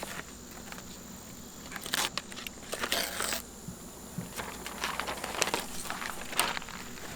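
Peel-and-stick foam padding and its backing being handled: crinkling and rustling with scattered small clicks and taps, the longest rustle about three seconds in.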